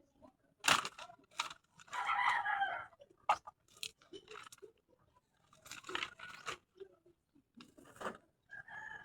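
Dry vegetation crunching and snapping in a string of sharp cracks as brush is cleared. A chicken calls about two seconds in and again near the end.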